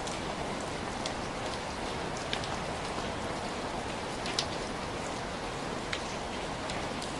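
Steady heavy rain falling, an even hiss with scattered individual drop hits, one sharper drop about four and a half seconds in.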